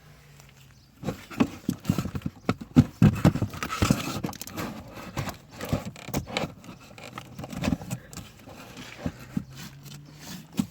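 Irregular clicks, knocks and rattles of plastic parts being handled while the cabin pollen filter and its cover are worked on, busiest from about a second in and easing off near the end, with a faint steady hum before and after.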